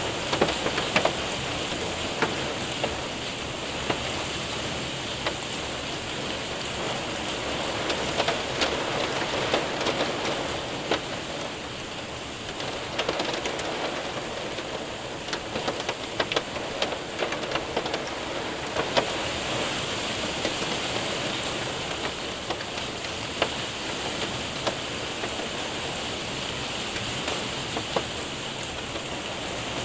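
Rain and hail falling on a window and roof: a steady rushing hiss with frequent sharp ticks of hailstones striking.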